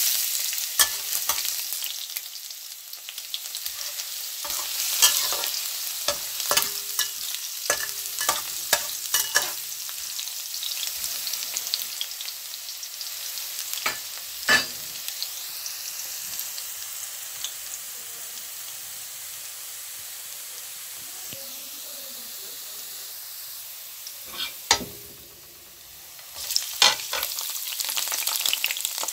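Minced garlic sizzling in hot oil in a wok, starting suddenly as it hits the oil, with scattered sharp clicks throughout. The sizzle settles quieter in the middle, and near the end sliced onions go in and it grows louder again.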